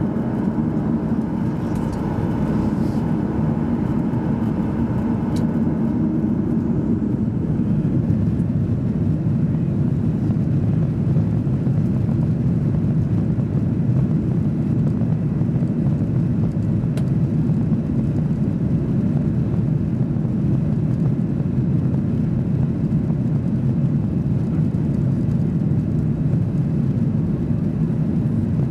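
Boeing 737-800's CFM56-7B jet engines running steadily, heard from inside the passenger cabin as an even, low rumble.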